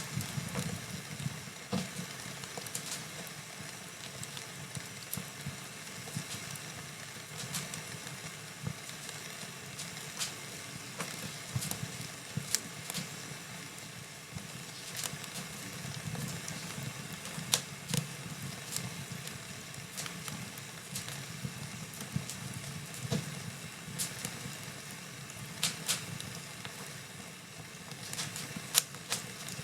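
Fireplace fire burning with a steady low rumble of flames and frequent sharp crackles and pops, a few of them louder, about halfway through and near the end.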